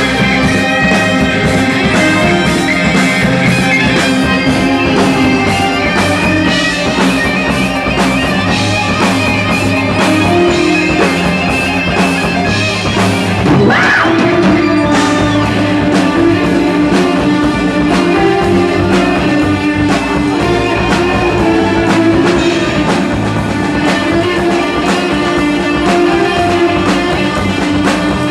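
Live rock band playing an instrumental passage without singing: drums, bass, electric guitar, keyboards and violin. A quick rising swoop cuts through about halfway.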